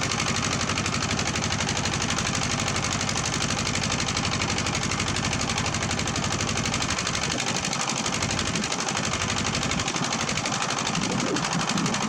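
Diesel engine of heavy earth-moving equipment running with a rapid, even chugging pulse; the deep rumble thins out about seven seconds in.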